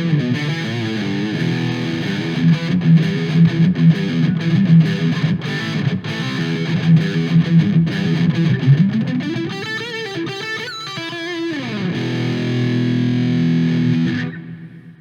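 Electric guitar played through a Donner Tube Drive overdrive pedal, distorted: fast riffing, then string bends with vibrato and a slide down about two-thirds through, then a held chord that is cut off near the end.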